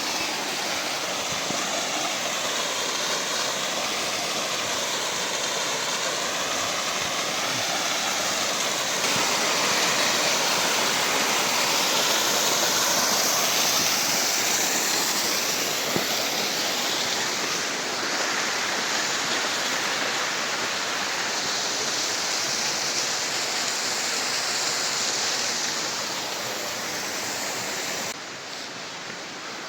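Rushing water from a stream or waterfall, a steady dense noise that gets louder about a third of the way in and quieter near the end.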